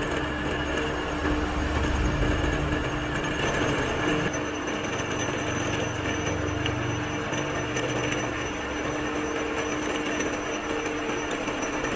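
A workshop machine running steadily with a constant hum, with a heavier low rumble during the first few seconds.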